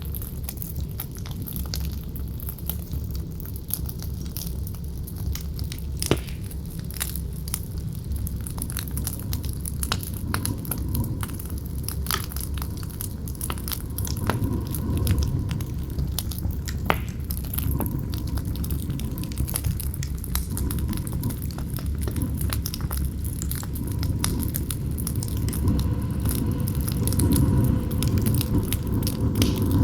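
Campfire crackling with frequent sharp pops over a low howling wind that swells louder toward the end, with a faint whistle in the wind from about halfway.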